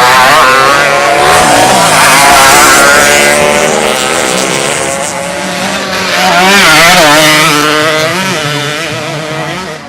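Several underbone (bebek) racing motorcycle engines revving hard as riders pass, their pitch rising and falling. They are loudest over the first three seconds and again about seven seconds in.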